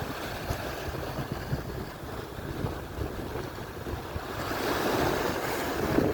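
Atlantic surf: waves breaking and washing up the shore, one wave swelling louder about two-thirds of the way through, with wind buffeting the microphone.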